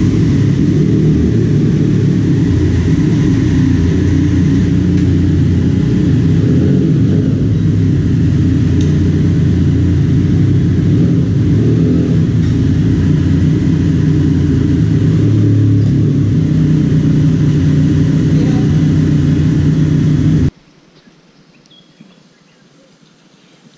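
Motorcycle engine running with a loud, steady low rumble that cuts off suddenly near the end.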